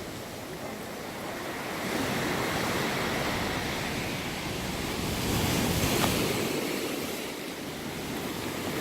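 Sea waves washing in on the shore, swelling louder twice, once about two seconds in and again a little past the middle.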